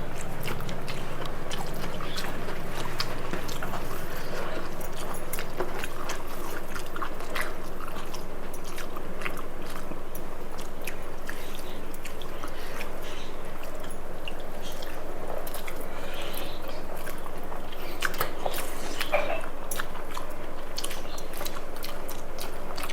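Eating sounds of rice with spicy chicken curry: wet chewing and many small mouth clicks.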